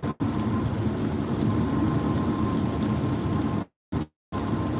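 Steady road noise of a car being driven on a freeway, tyres and engine heard from inside the cabin. The sound cuts out completely twice, very briefly near the start and again for about half a second near the end.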